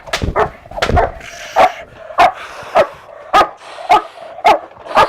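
German Shepherd protection dog barking hard and steadily, nearly two barks a second, while engaging a threat during agitation work.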